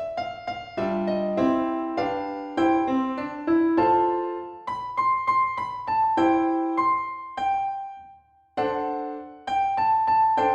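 Background piano music: a gentle melody of struck notes with chords, each note fading after it is played, with a short pause about eight and a half seconds in.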